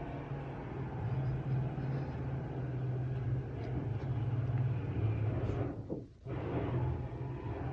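Steady low mechanical hum and rumble of construction machinery, heard from inside an apartment. It drops out briefly about six seconds in, then carries on unchanged.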